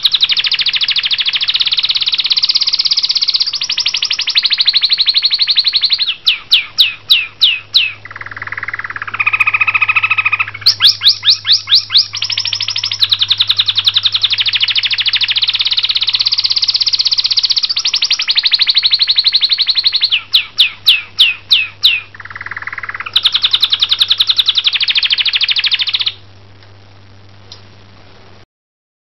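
A songbird singing loudly in long, fast, buzzing trills broken by runs of separate sweeping notes. The song stops about 26 seconds in, leaving a faint low hum.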